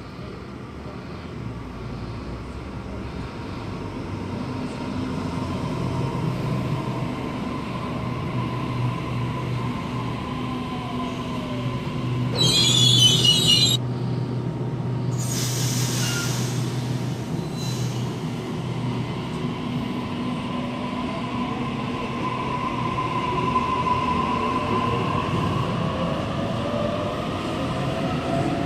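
Double-deck electric suburban train pulling into the platform, its motor whine falling as it slows to a stop. A loud hiss comes about halfway through, then the whine rises again as the train pulls away along the platform.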